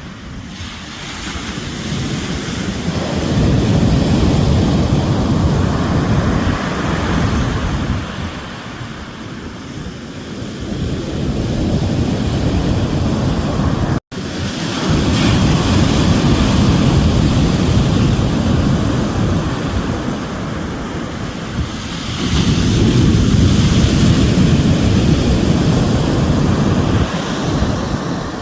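Ocean waves breaking and washing ashore, the noise swelling and easing every few seconds, with a very brief dropout about halfway through.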